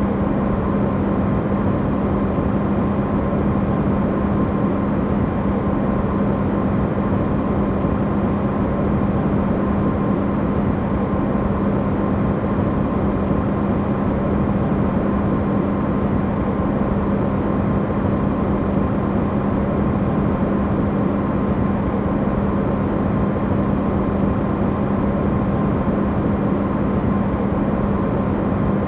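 Amplified recording of an Electrolux refrigerator running: a steady hum with a strong low drone and a fainter higher whine over an even rushing noise, unchanging throughout.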